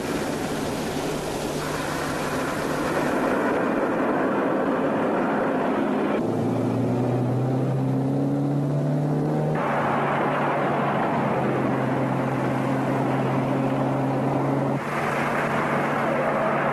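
Car engines running at road speed with tyre and road noise. The engine note changes abruptly three times, and rises slightly in pitch between about six and nine seconds in.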